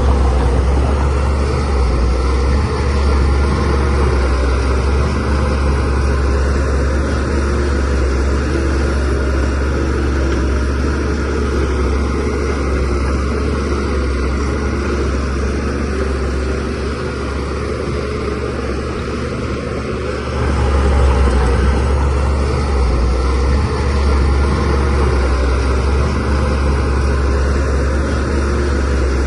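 DH17C3PRO bulldozer's diesel engine running under load as it works soil, a steady low rumble that grows louder about 20 seconds in.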